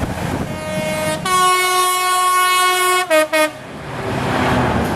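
Train horn: one long note of about two seconds, then two short, slightly lower notes, over the running noise of a passing train.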